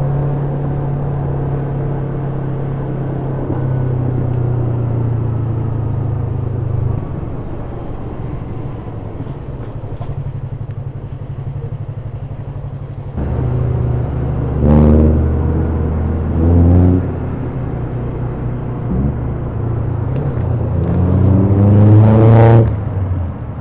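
Stock Yamaha YZF-R3's 321 cc parallel-twin engine with its original exhaust, heard from the rider's seat: it holds a steady note, then settles lower, gives two short sharp revs about halfway through, and climbs in one long rising rev near the end before the throttle is shut.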